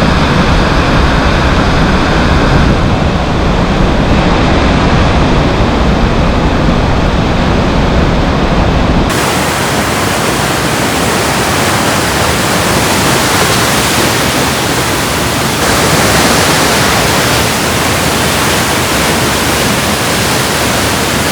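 Loud, steady rush of class V whitewater rapids. About nine seconds in the sound changes abruptly, losing its low rumble and turning hissier.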